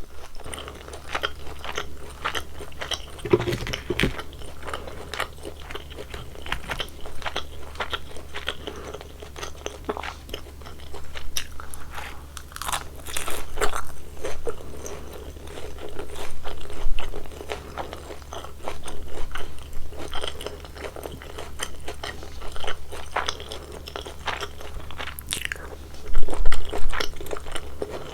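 Close-miked crunchy chewing and biting of crispy fried glutinous-rice sweet and sour pork: dense crackling crunches of the battered crust, with a few louder bites.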